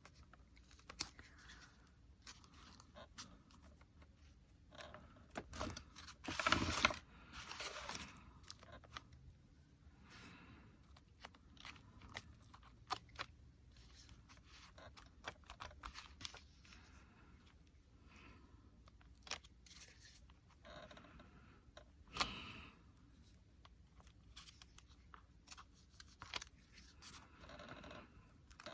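Quiet handling of paper and craft materials on a work table: scattered faint rustles, scrapes and light taps. A louder scraping rustle comes about seven seconds in, and a short sharp knock about twenty-two seconds in.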